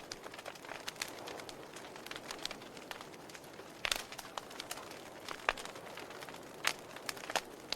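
Wood fire crackling in a fireplace: irregular sharp pops and snaps, the loudest about four, five and a half, and seven seconds in, over a soft steady hiss of the flames.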